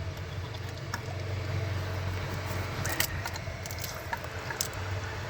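Classic car engine idling steadily, with a few light clicks over it.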